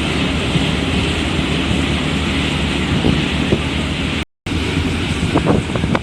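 Steady low engine rumble with wind blowing on the microphone. The sound cuts out completely for a moment about four seconds in.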